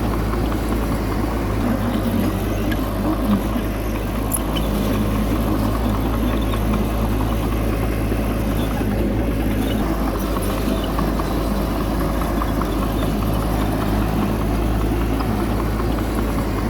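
Heavy diesel engine of earthmoving machinery running steadily at a constant low rumble, with no revving or change in load.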